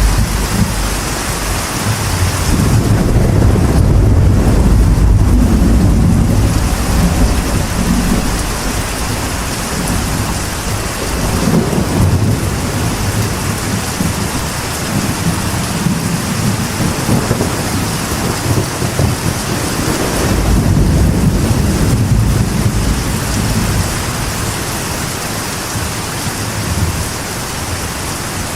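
Steady rain drumming on a metal roof, with thunder rumbling through it, building to deep swells about a few seconds in and again about two-thirds of the way through.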